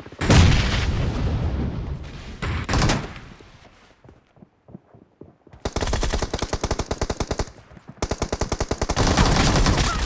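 Video-game gunfire: loud shooting in the first few seconds, a short lull, then two long bursts of rapid automatic fire in the second half.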